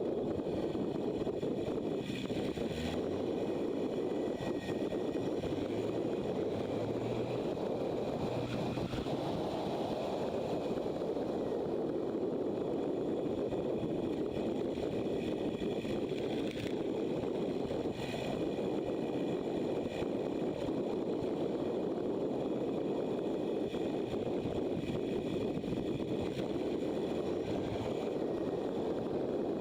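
Motorcycle riding along at a steady pace: the engine running under a steady rush of wind noise on the microphone.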